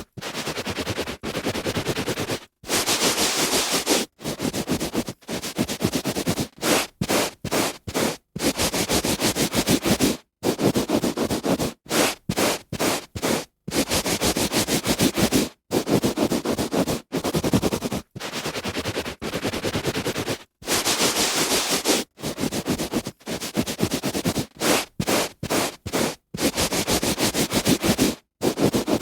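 A hand rubbing on a carpet: strokes of scratchy friction, some short and some lasting a couple of seconds, separated by brief silent gaps.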